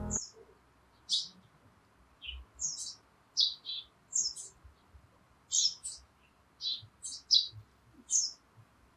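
A small bird chirping: short, high chirps repeating irregularly, one or two a second, with a little music dying away right at the start.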